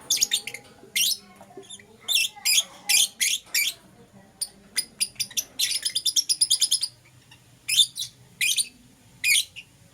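Lovebirds chirping in short clusters of sharp, high-pitched notes. In the middle there is a fast, chattering run of rapid chirps.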